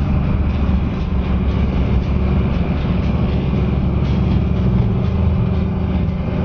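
Can-Am Spyder three-wheeled motorcycle engine running steadily with a deep low hum while riding.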